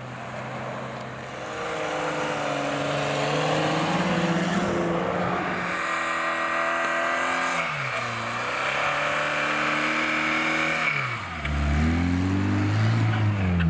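4x4 engines revving hard under load while driving through deep snow. The revs hold, drop and climb again a couple of times.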